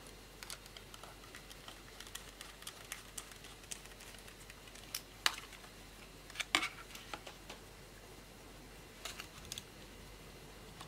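Scattered light plastic clicks and taps from hands working on an open laptop. A few louder clicks come about five and six and a half seconds in, and a quick run of clicks comes near the end.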